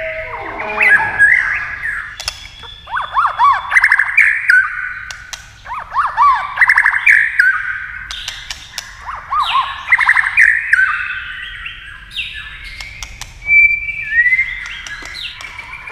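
White-rumped shama singing: repeated phrases of quick rippling whistles and trills, a new phrase every two to three seconds, mixed with sharp clicks.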